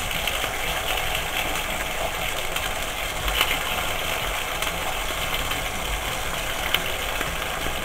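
Chicken breast fillets sizzling in hot oil in a pot: a steady frying hiss, with a couple of faint clicks as the pieces are laid in.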